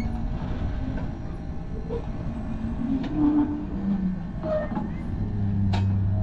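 Small jetty tourist train rolling slowly in, with a steady low rumble. A low hum from its drive comes in about five seconds in and grows slightly louder, and there is a sharp click near the end.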